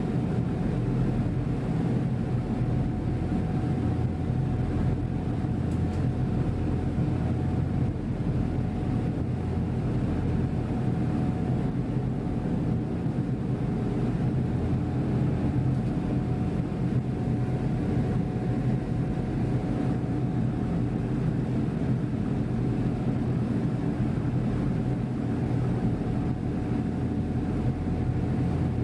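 Passenger ferry's engines running with a steady low drone and a faint steady tone above it, heard on board.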